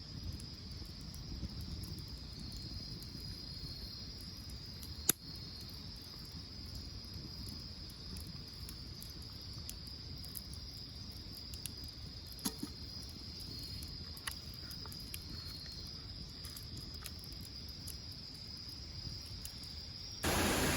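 Crickets chirping steadily in a high, even trill, with a few sharp pops and crackles from a wood fire. A much louder steady rushing noise cuts in abruptly near the end.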